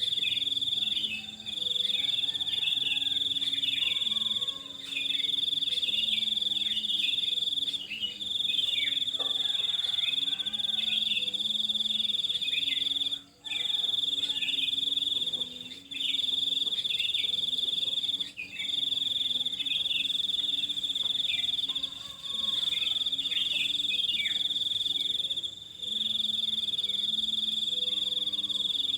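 A loud insect trill at one steady high pitch, running in long stretches of a few seconds each with short breaks between them. Quieter bird chirps come through underneath.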